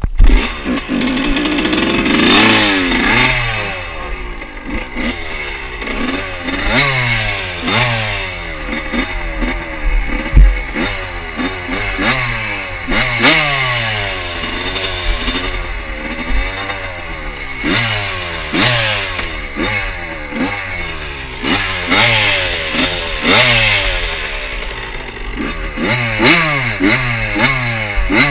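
Motorcycle engine catching on choke, then revved up and down over and over, its pitch climbing and dropping every second or two.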